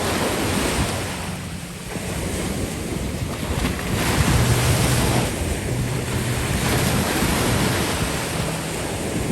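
Ocean surf breaking and washing ashore in swells, with wind buffeting the microphone.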